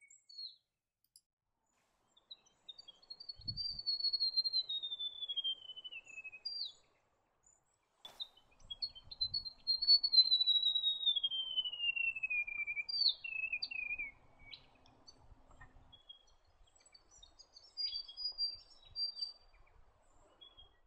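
White-throated gerygone singing: a sweet, falling song that slides steadily down the scale over about three seconds, sung twice, followed by a few short high notes.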